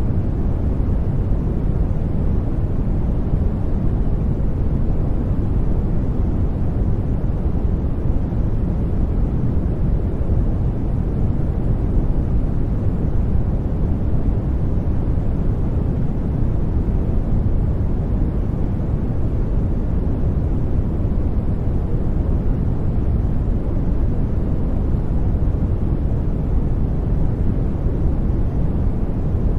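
Steady brown noise: an even, deep rumbling hiss, strongest in the bass and fading toward the treble, with no change or pattern.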